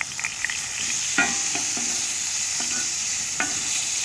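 Pork chops sizzling in hot oil in a cast iron skillet over a campfire, a steady frying hiss with a few sharp pops, the loudest about a second in.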